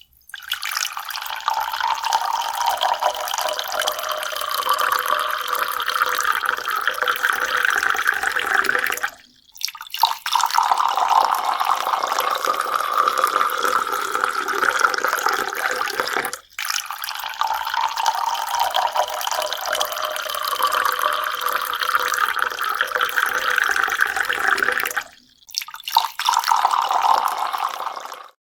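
Water running steadily, in stretches broken by three sudden cuts.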